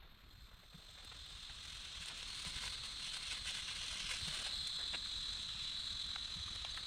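Steady high trilling of insects in the wild, fading in over the first few seconds, with a few scattered soft ticks over a faint hiss.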